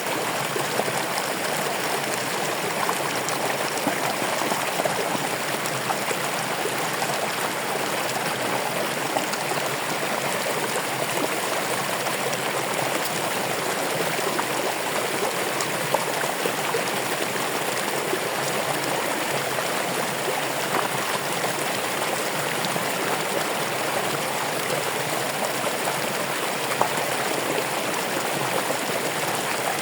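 Running water, flowing steadily with a continuous even rush.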